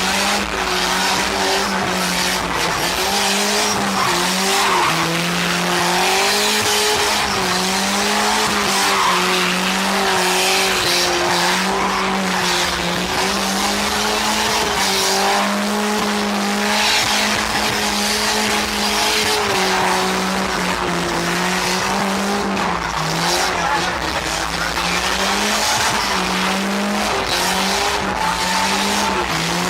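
Car engine revved hard and held at high rpm, a loud, continuous drone whose pitch wavers slightly as the throttle is worked.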